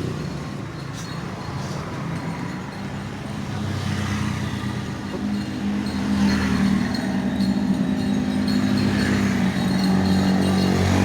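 Yamaha Mio scooter's single-cylinder engine, bored up to 155cc, running with a thundering exhaust note that grows louder from about four seconds in, then holds steady.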